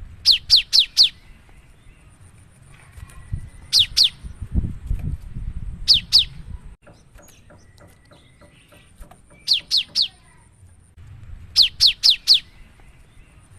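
Cinereous tit (gelatik batu) singing in full voice: quick groups of two to four sharp whistled notes, each falling steeply in pitch, repeated every two to three seconds over a low background rumble.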